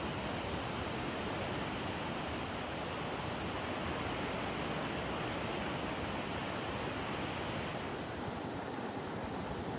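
The swollen Beas River rushing in spate: a steady, unbroken roar of fast floodwater, its higher hiss easing slightly about eight seconds in.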